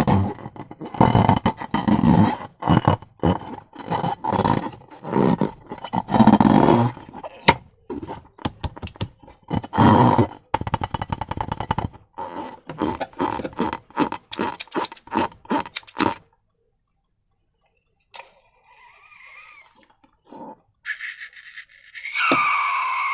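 Slime squished and worked by hand: a rapid, irregular run of wet squelches and sticky pops that stops about sixteen seconds in. Near the end come a few short squeaky sounds that slide in pitch, the last one falling.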